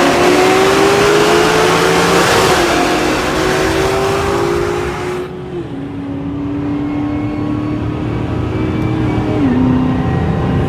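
Car engine under load, its note rising for about two seconds, then easing and stepping down in pitch twice as the throttle comes off. A loud rushing hiss stops abruptly about halfway through.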